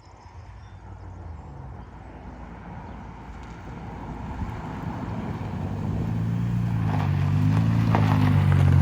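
Infiniti G35's V6 exhaust, with the muffler and resonators deleted, getting steadily louder, its low drone building strongly over the last few seconds.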